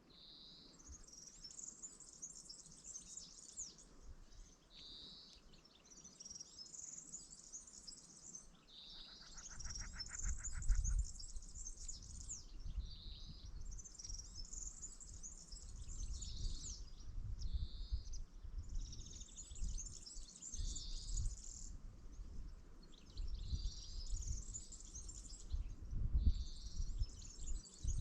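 A songbird singing the same short twittering phrase over and over, about every three to four seconds. Each phrase opens on a lower note and runs into a high trill. About a third of the way in a low, uneven rumble comes in and carries on underneath the song.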